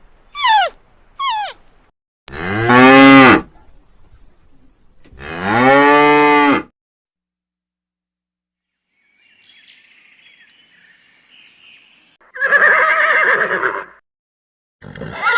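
Cow mooing: two long, loud moos, each bending up and then down in pitch, with a rougher call near the end. Two short falling goose honks are heard at the very start.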